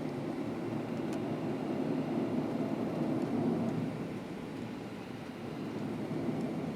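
Steady low rumble in the cabin of a Boeing 737-700 on the ground after landing, its CFM56 engines running near idle; it eases slightly about four seconds in.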